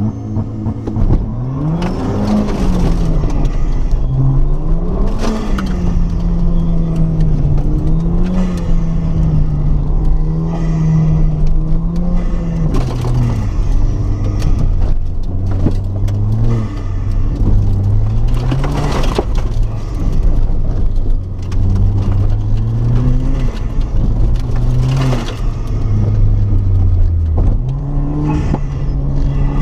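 Rallycross car's engine driven hard on course: the revs climb and fall again and again through the run, and drop sharply a couple of times as it shifts or lifts for corners.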